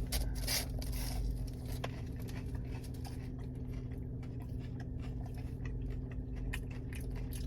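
Biting into and chewing a McDonald's hash brown: scattered soft crunches and mouth sounds over a steady low hum.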